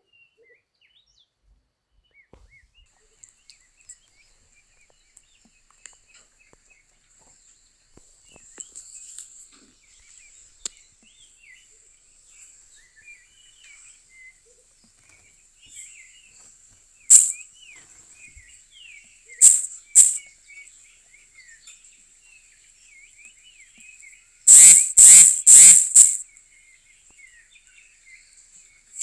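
Natural outdoor ambience: many small bird chirps and calls over a steady high-pitched insect buzz. Scattered loud sharp bursts stand out, with a quick run of four loud harsh ones near the end.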